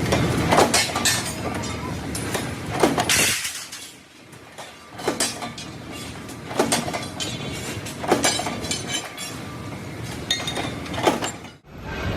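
Steel parts clanking with a ringing clink every second or two, over a steady din of factory machinery.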